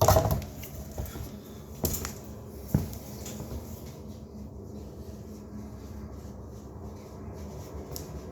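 A handful of light knocks and taps, the first the loudest, over a low steady hum: drywall tools and materials being handled.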